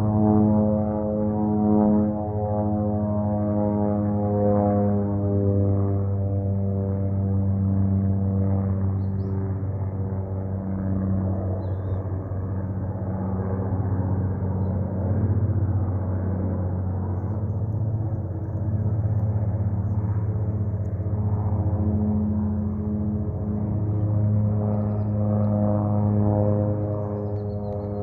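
Antonov An-2 biplane in flight, its nine-cylinder radial engine and propeller running with a steady low hum that swells and fades slowly in level.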